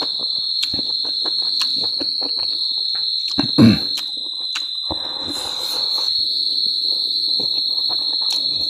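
Close-up eating sounds: chewing and lip-smacking with many small sharp wet clicks, a louder short mouth sound about three and a half seconds in, and a brief breathy rush of noise around five seconds in. A steady high-pitched whine runs behind it all.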